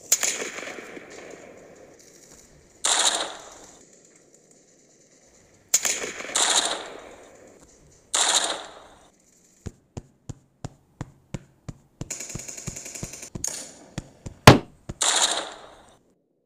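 Gunfire sound effects of rifle and machine-gun fire. Single shots, each trailing off, are followed by a string of short sharp shots about three a second, then a rapid burst, a very loud crack near the end and one last shot.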